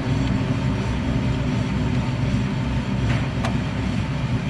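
Kia rear wheel spinning off the ground with a steady low rumble from its rear wheel bearing, which the mechanic finds to be failing. A couple of faint ticks come about three seconds in.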